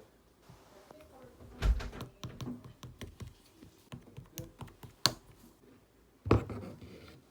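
Clear slime with clay on top being handled by hand: an irregular run of small clicks and taps, with two louder thuds and one sharp click.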